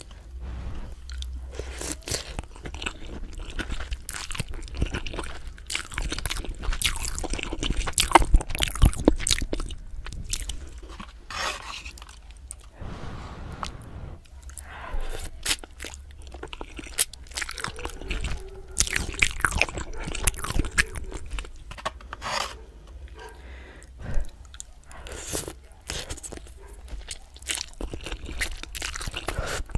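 A person eating close to the microphone: irregular crunchy bites and steady chewing.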